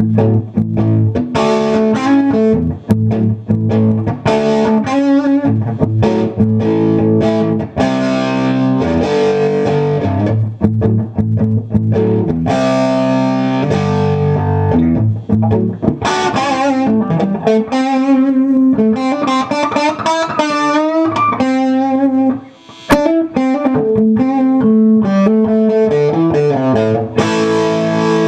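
1975 Gibson Les Paul Custom electric guitar with a maple fretboard, played through an amp. It moves between chords and single-note lines, with wavering, bent notes in the middle and a brief break about two-thirds of the way through.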